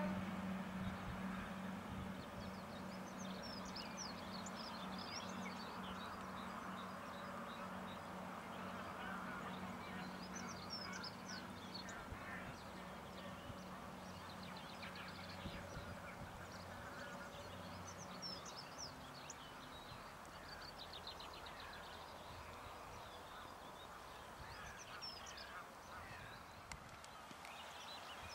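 Distant diesel railcar engine, a steady low drone that slowly fades away and is gone about two-thirds of the way through, with birds chirping and calling throughout.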